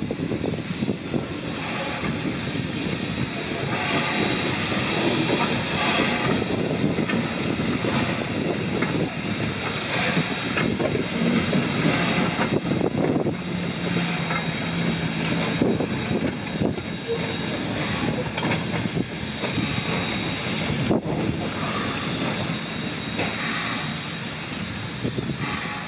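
Rx-class steam locomotive RX 207 running with its passenger train: a continuous rumble of wheels on rail with frequent clicks, and a steady low tone for a few seconds midway.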